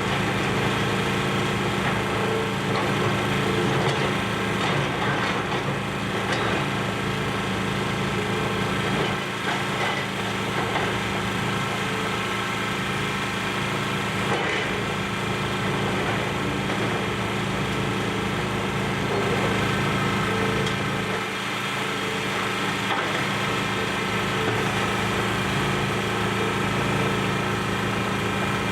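Demolition excavator's engine running steadily under load as it tears into the building, with irregular crunching and scattered knocks of breaking debris.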